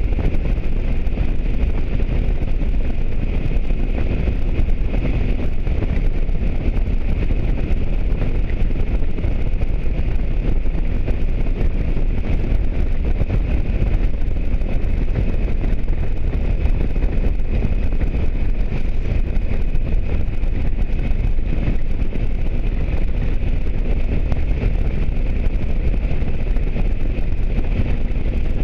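Motorcycle under way at steady speed: a constant rush and low rumble of wind on the microphone over the engine and road noise.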